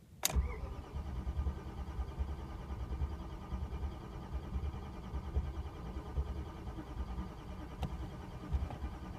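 A 1997 BMW 740iL's starter motor cranking its V8 engine, which turns over steadily but does not catch, after a click as the key is turned. A cold start after five months of sitting; the owner later puts the failure to start down to too little fuel in the tank.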